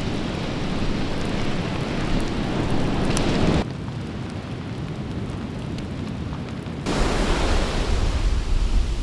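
Outdoor weather noise: a steady hiss of rain, with two abrupt cuts to a different sound, about three and a half seconds in and again about seven seconds in. The last part is strong wind buffeting the microphone, with sea surf.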